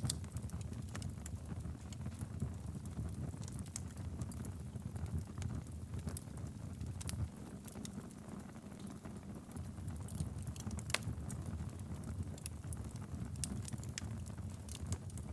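Wood campfire crackling, with frequent sharp pops and snaps scattered irregularly over a steady low rumble.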